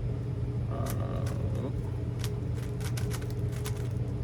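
Plastic Rubik's cube being turned rapidly by hand, its layers clicking irregularly, over a steady low hum.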